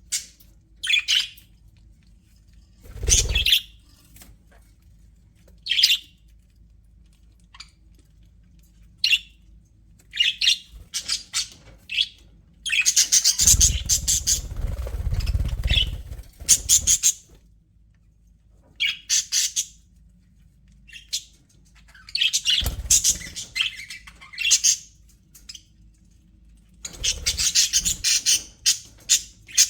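Pet budgerigars chirping and chattering in bursts a few seconds apart, with short quiet gaps between; the longest burst, about halfway through, runs for several seconds.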